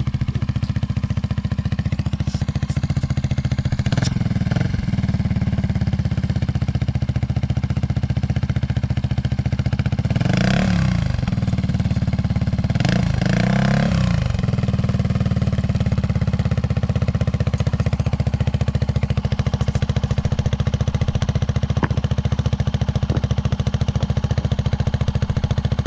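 Polaris RZR side-by-side's engine running steadily under way, revving up and back down twice near the middle.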